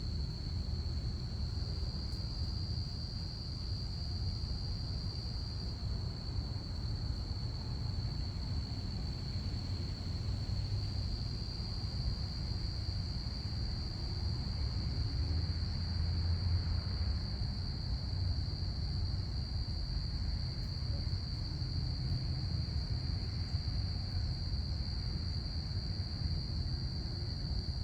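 Crickets chirping in a continuous chorus, one steady high trill without a break, over a low rumble that swells slightly about halfway through.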